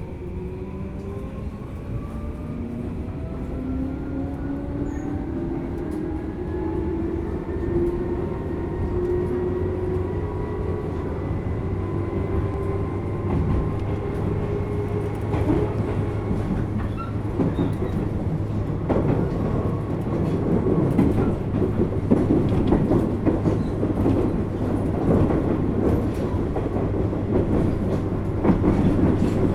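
Tobu 10000 series electric train heard from inside the car as it pulls away and gathers speed. A whine of the traction motors and gears rises in pitch and levels off over the first dozen seconds, over a steady hum. Halfway through, louder wheel-on-rail rumble and clicks from rail joints build up as the train runs at speed.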